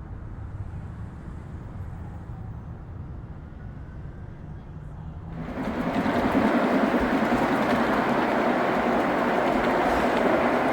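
Gauge 1 model train running on the layout's track, with wheel and rail noise over a low hum. About five seconds in, the train noise suddenly gets much louder and stays loud.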